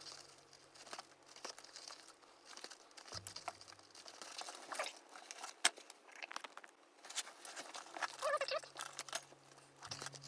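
Crinkling and rustling with light clicks and taps from materials being handled, and a short squeak about eight seconds in, over faint low background music.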